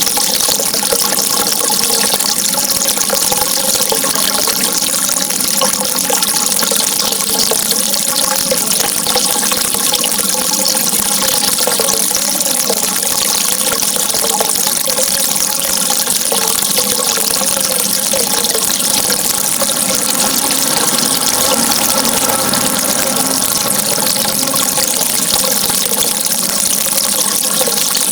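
Running water: a steady, unbroken rush with a wavering gurgle in it.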